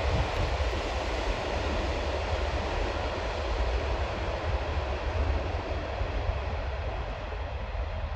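Distant V/Line diesel passenger train running past, a steady rumble that eases slightly toward the end as it moves away.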